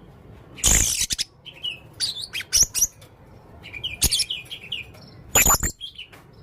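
A male blue-crowned hanging parrot calls, giving short shrill squeaky notes in quick clusters. It gives two louder harsh screeches, one about a second in and one near the end.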